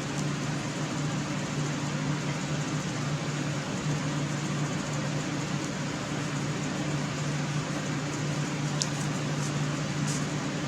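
Steady mechanical hum with a low droning tone, like a fan or air-conditioning unit running, with a few faint clicks near the end.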